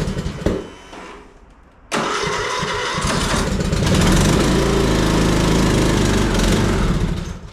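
John Deere lawn tractor engine being cold-started in freezing weather: it sputters and dies back, then catches again about two seconds in and runs, not happy about it, before falling away near the end.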